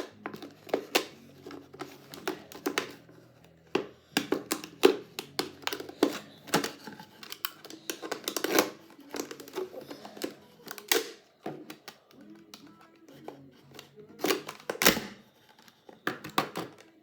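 Utility knife blade cutting into a thin plastic water bottle: irregular clicks and crackles as the blade pierces and the plastic flexes, over quiet background music.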